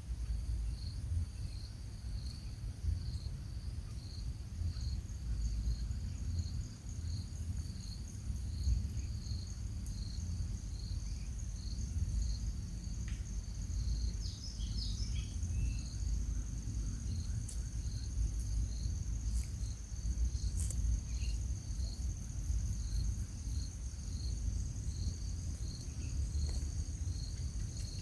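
Insects trilling steadily in a high, continuous tone, with a second pulsing trill just below it, over a low rumble. A few brief bird chirps come about halfway through.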